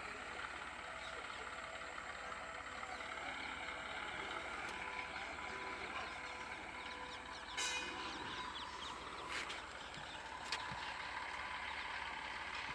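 Faint outdoor background noise with a steady low hum, broken by a short sharp sound about seven and a half seconds in and a couple of small clicks later.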